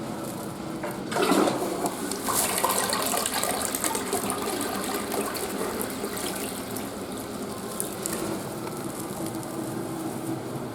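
A toilet flushing: a sudden rush of water about a second in, followed by water running that gradually dies down over several seconds.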